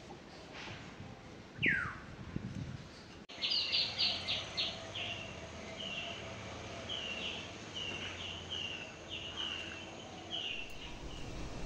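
Small songbird calling: one falling whistle, then a quick run of short high chirps, about two or three a second, that stops shortly before the end.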